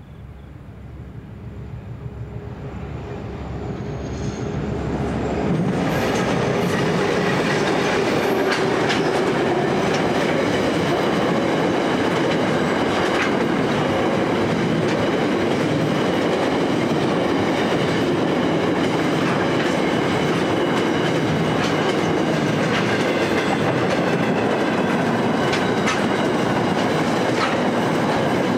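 Diesel-hauled container freight train approaching and passing: the locomotives' engines grow steadily louder over the first five or six seconds, then a long rake of container flat wagons rolls by with a steady wheel rumble, clickety-clack over the rail joints and a faint high wheel squeal.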